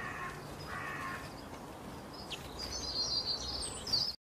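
Quail calling: harsh, rasping calls repeated in the first second, then higher, thinner chirps from about two seconds in. The sound cuts off just before the end.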